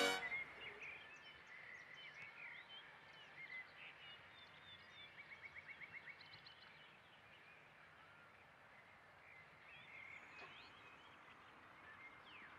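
Faint birdsong ambience: scattered short chirps and whistles, with a quick trill of evenly repeated notes about halfway through. At the very start the tail of a loud horn note dies away.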